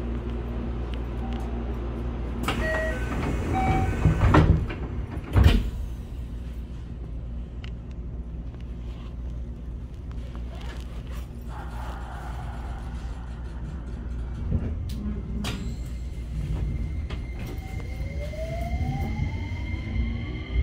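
Inside a JR West 225 series motor car: a short chime of separate high tones, then the sliding doors shut with two loud knocks about four and five seconds in. Near the end the Hitachi IGBT VVVF inverter starts up with a rising whine as the train begins to accelerate.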